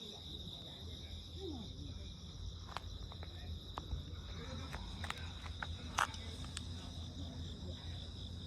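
Steady high insect song, crickets trilling without a break, over a low rumble, with a few scattered sharp clicks, the loudest about six seconds in.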